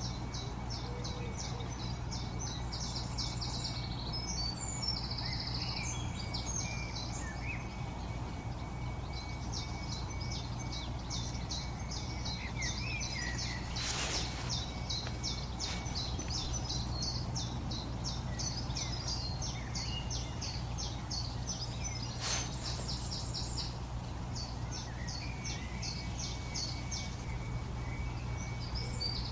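Songbirds singing: a long run of rapid, high, clipped notes repeated several times a second, over a steady low background hum. Two sharp clicks come about halfway through and again later.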